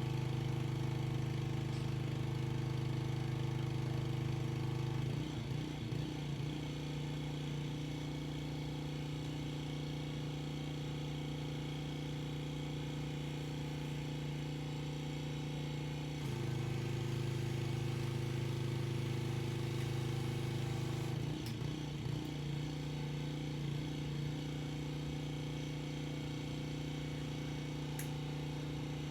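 Pressure washer engine running steadily, its note and loudness shifting about five seconds in, again around sixteen seconds and once more around twenty-one seconds.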